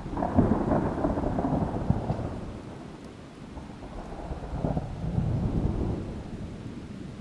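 Thunder cracks suddenly and rolls for a couple of seconds, fades, then swells into a second rumble about four and a half seconds in before dying away, over a steady hiss of rain.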